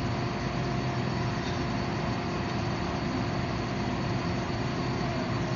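Forge running turned up high to reach welding heat: a steady roar with a constant hum under it.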